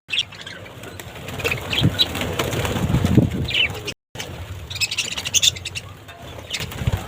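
Budgerigars fluttering and flapping their wings, with short high chirps among them.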